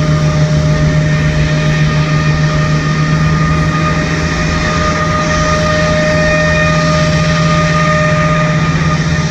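Boeing 777-200ER's Pratt & Whitney PW4090 turbofan engines running loud and steady, a constant whine of several tones over a deep drone; the lowest whine tone drops away near the end.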